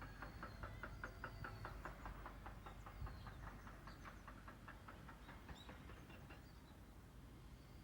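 A bird's rapid chattering call: a run of evenly spaced short notes, about five a second, that fades out after about six seconds. Thin high bird whistles sound over a faint, steady low outdoor rumble.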